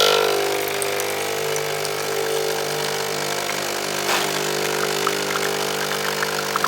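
Espresso machine's pump running with a steady buzzing hum as a shot is pulled, with crackling spits in the last few seconds.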